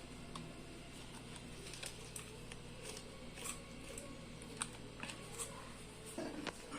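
Faint, scattered clicks and taps of kitchen utensils against pots and dishes, over a steady low hum.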